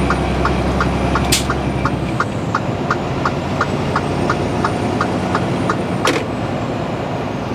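Inside a moving semi-truck's cab: steady engine and road drone with an even, rapid ticking of about three ticks a second, and two sharp clicks, one near the start and one near the end.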